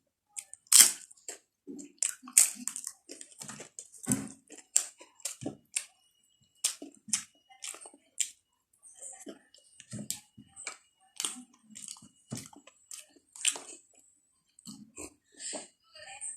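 Close-up mouth sounds of a person eating: wet chewing and lip smacks, coming irregularly with short pauses between mouthfuls.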